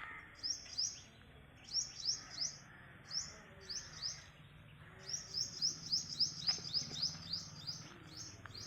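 A bird chirping: short, high notes in bursts of two or three, then a quicker run of about four chirps a second in the second half.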